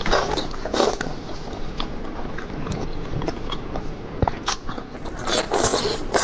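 Close-up biting and chewing of seafood, with irregular wet crunches and smacks.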